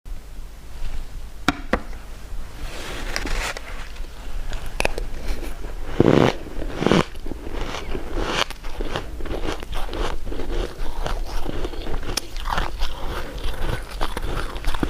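Close-miked eating: a run of crisp bites and chewing, with sharp clicks between them; the loudest bites come about six and seven seconds in.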